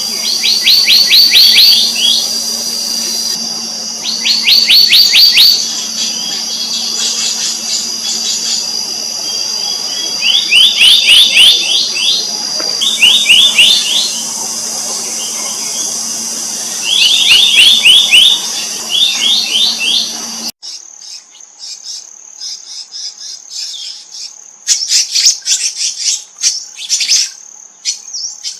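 Black-naped monarchs calling: repeated bursts of rapid, high, rattling notes, each burst lasting a second or two, over a steady high-pitched whine and a low hum. About twenty seconds in the background cuts off abruptly and the calls carry on more faintly.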